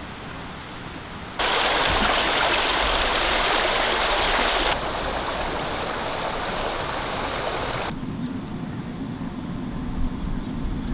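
Steady rushing noise, like air or water, that starts abruptly about a second and a half in and changes suddenly in strength and pitch twice more, ending with a quieter hiss and a low hum.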